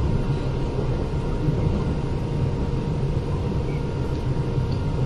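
Interior running sound of a Kintetsu 8000 series train car: a steady rumble of wheels and running gear, with a thin steady whine.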